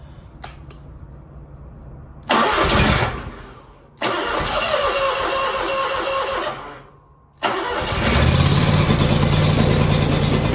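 Cold start of a Scag V-Ride II 52-inch stand-on mower's engine after sitting for months: a short click, then two cranking tries that each die away, before it catches about seven seconds in and runs steadily.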